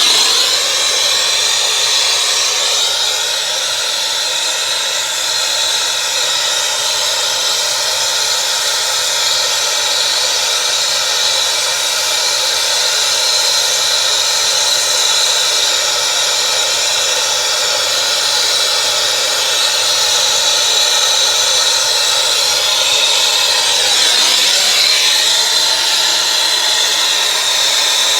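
Brazing torch flame hissing steadily while copper refrigerant lines are brazed onto a new heat pump compressor, wavering briefly near the end.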